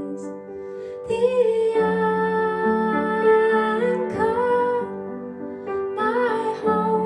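A gentle song: a voice singing long held notes with vibrato over soft instrumental accompaniment.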